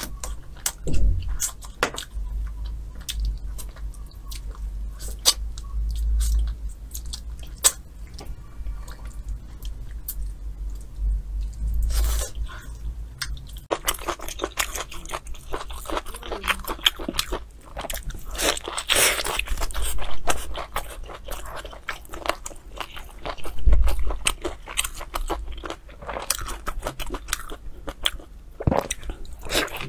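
Close-miked chewing and biting. First comes gnawing and chewing on a braised goose wing, with sharp clicks. About halfway it turns into denser crunching bites into a crusty pig's trotter.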